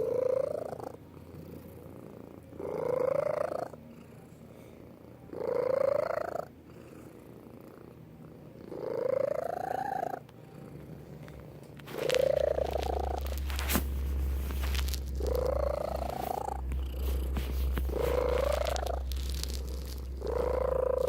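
Domestic cat purring, with a rising tone about every three seconds as it breathes. About halfway through, a steady low hum joins in.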